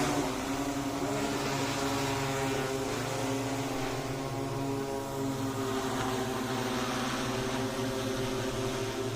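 Agricultural spraying drone's propellers running with a steady, even hum.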